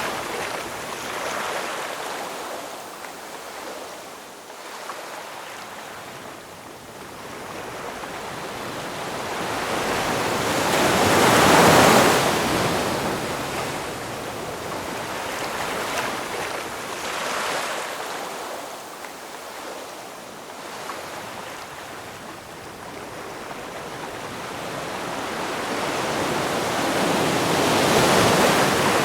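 Ocean waves breaking on a shore: a continuous wash of surf that builds to two loud breakers, about a third of the way in and near the end, and falls back between them.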